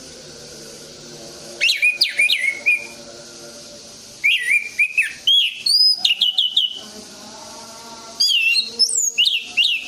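Orange-headed thrush singing three bursts of rapid, high whistled notes that swoop up and down, separated by pauses of a second or more.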